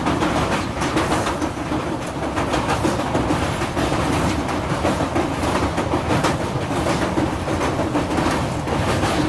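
Indian Railways LHB passenger coach running at speed across a steel truss bridge: a steady loud rumble of wheels on rail with a rapid clatter of clicks running through it.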